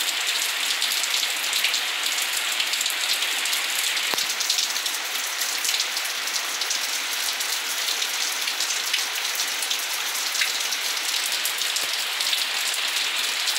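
Heavy rain falling steadily: an even hiss of drops that holds at one level throughout.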